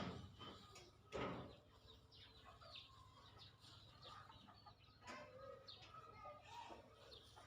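Faint bird calls, chicken-like clucks and chirps, scattered through, with a short rush of noise about a second in.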